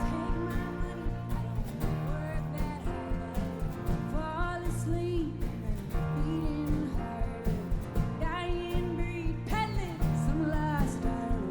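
Live country-rock band playing to a steady beat, with guitars and a sung vocal melody over it.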